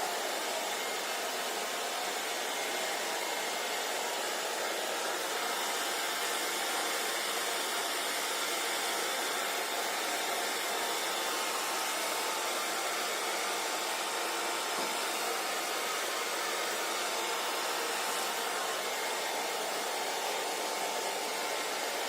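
Handheld hair dryer running steadily, an even whooshing blow of air with a faint whine from the motor.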